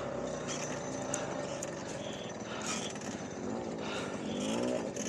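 A 1970 50cc two-stroke moped engine running just after a hard start. In the second half the revs rise and fall two or three times as the throttle is blipped.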